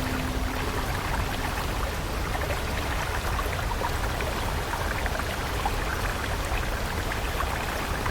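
Flowing stream water, a steady rush with many small bubbling splashes. A soft held musical note ends about a second and a half in.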